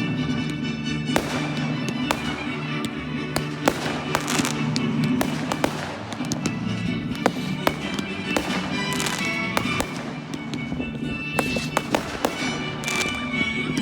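Fireworks going off: a run of irregular sharp bangs and crackles, several a second at times, with music playing underneath.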